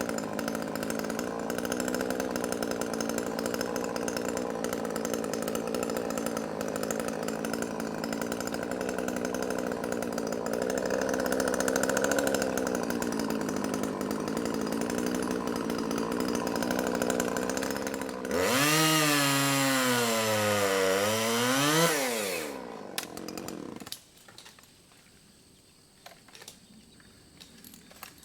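Two-stroke chainsaw running at a steady speed. About eighteen seconds in it gets louder, and its pitch sags and climbs as it cuts through small trees. The engine dies away a few seconds before the end, leaving faint scattered noises.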